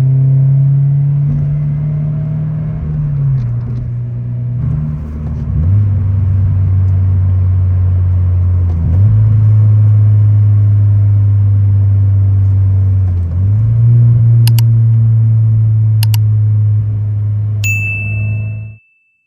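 Subaru BRZ's flat-four running through an aftermarket exhaust while driving, a steady low drone whose pitch steps down or up a few times as the revs change. Two sharp clicks come late on and a single chime rings near the end before the sound cuts off abruptly.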